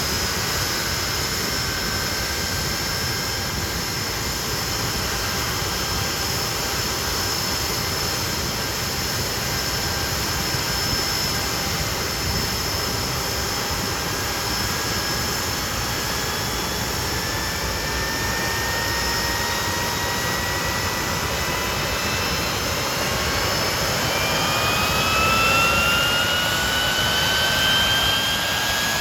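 Hawker Siddeley Nimrod's Rolls-Royce Spey turbofan engines running with a steady roar and a high whine. From about two-thirds of the way through, the whine climbs in pitch and the sound grows a little louder as the engines spool up.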